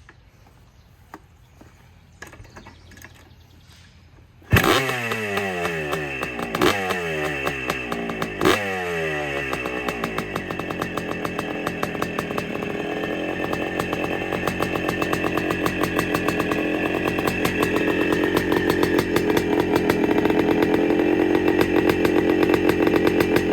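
1973 Honda Elsinore CR250M's two-stroke single-cylinder engine cold-starting. After a few faint clicks it catches suddenly about four and a half seconds in. Its revs spike and fall away three times, and it settles into steady running that grows slowly louder.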